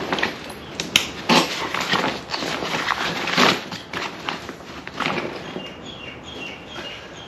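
Canvas of a new swag rustling and swishing as it is unrolled and handled, with a few sharp knocks and clicks among the rustles.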